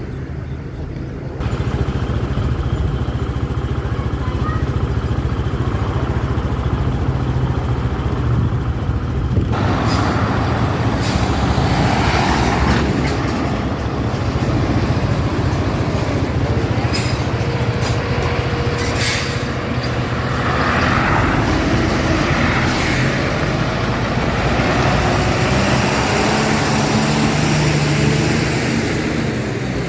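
An engine running steadily under a broad rushing noise. The rushing grows louder about a second and a half in and brightens again about ten seconds in.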